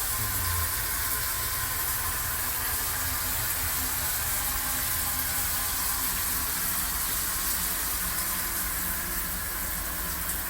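Shower head spraying water against the shower wall in a steady hiss, run to check the water pressure.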